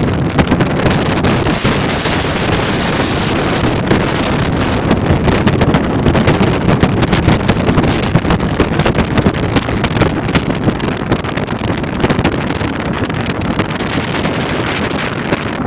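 Loud, gusty wind noise on the microphone over a low, steady rumble.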